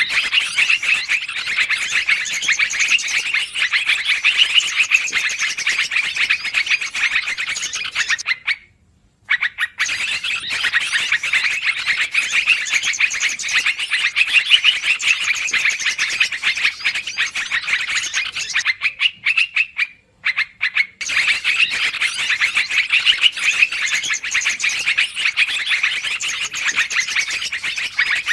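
Yellow-vented bulbul (trucukan) calling in an agitated, noisy way, as used for bird-luring: dense, rapid chattering in long bouts, broken by short pauses about nine and twenty seconds in.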